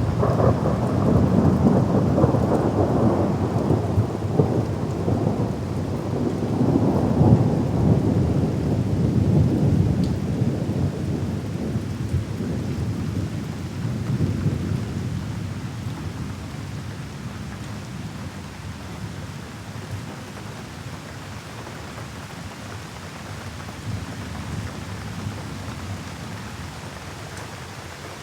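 Thunder rolling over steady rain. A long low rumble starts at once, swells again several seconds in, then fades away over about ten seconds, leaving the hiss of the rain.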